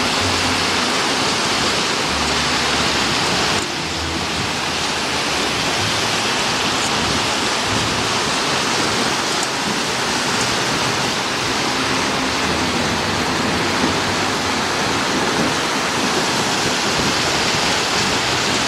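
Waterfall rushing: a steady, even noise of falling water, with a sudden slight drop in level about three and a half seconds in.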